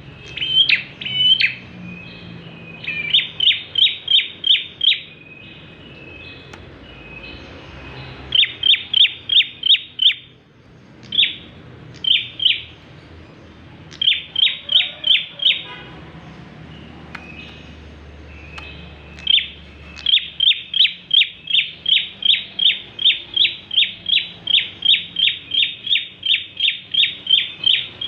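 Prenjak klawu (a prinia) singing hard in long runs of sharp, evenly repeated chirps, about two or three a second, broken by short pauses. The longest run starts about two-thirds of the way in and goes on to the end.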